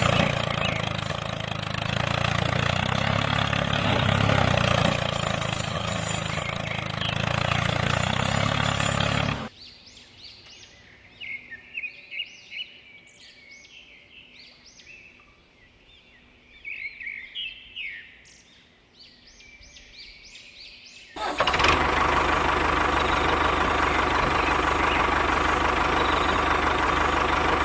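Loud steady rushing noise with a low hum, which cuts off abruptly about nine seconds in. A quiet stretch follows with birds chirping in short repeated notes. About 21 seconds in, the loud steady noise cuts back in.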